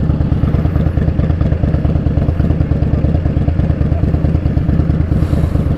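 Indian Scout Bobber's V-twin running at a steady, unchanging pitch through Vance & Hines slash-cut exhaust, with a rapid pulsing beat.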